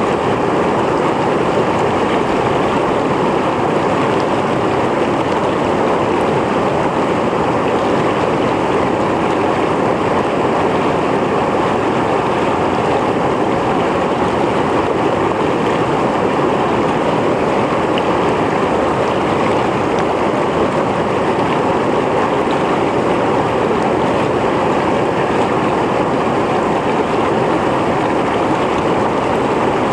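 Mountain stream flowing over rocks: a steady, loud rush of water.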